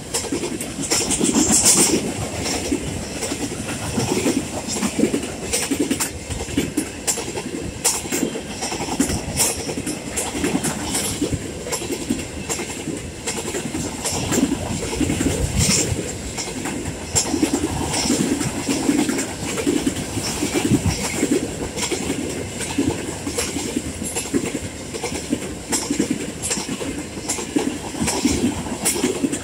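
Loaded coal hopper cars of a freight train rolling past at close range: a steady rumble of steel wheels on rail, with continual irregular clicking and clatter as the wheels cross rail joints.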